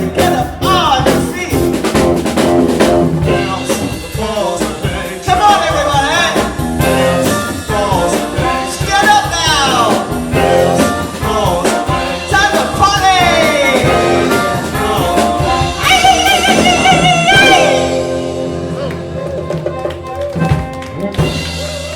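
Live blues band playing an instrumental passage with sliding, wavering lead lines over the drums. About three-quarters of the way in the band settles onto a long held chord that fades as the song ends.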